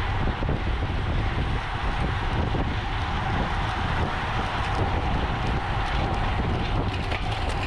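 Steady wind buffeting the microphone of a moving bicycle in a road race, over a continuous low rumble of tyres on the road.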